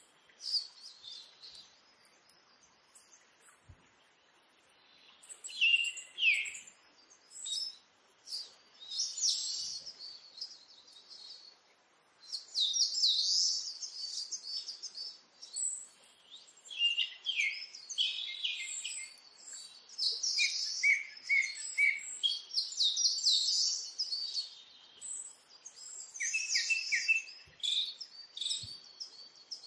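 Small birds chirping and twittering in quick runs of short, high calls, with brief pauses between the runs.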